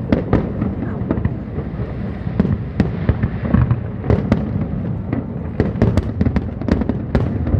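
Aerial fireworks going off: a rapid, irregular run of sharp bangs and crackles over a continuous low rumble of the display.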